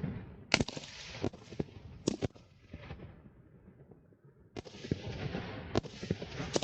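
Fireworks exploding: sharp bangs over a crackling hiss. It eases off for a second or so midway, then another burst of crackle and bangs starts up suddenly.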